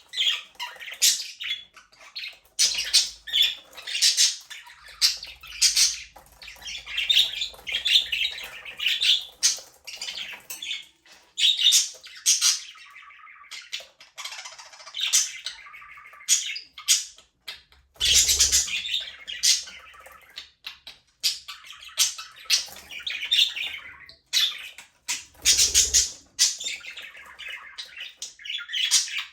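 A flock of budgerigars chirping, warbling and squawking all together, a busy overlapping chatter of quick high calls, with a few louder squawks about 18 and 26 seconds in.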